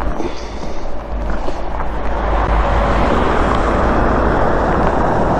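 A car driving through standing floodwater on the road: a hiss of tyres and spray that builds over the first couple of seconds and then holds steady.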